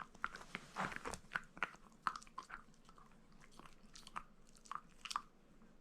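Shiba Inu crunching and chewing on meat: irregular sharp crunches at an uneven pace that stop about five seconds in.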